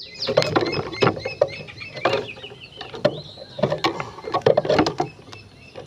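An Oriental magpie-robin (kacer) in full song: a rapid, varied run of chirps and short whistles broken by sharp clicking notes.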